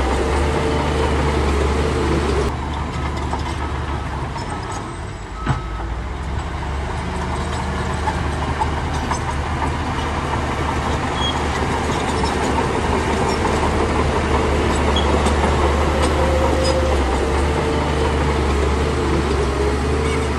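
Shantui bulldozer's diesel engine running hard with steady mechanical clatter. The engine eases off about two and a half seconds in, there is a single sharp knock a few seconds later, and then it builds back up to full power.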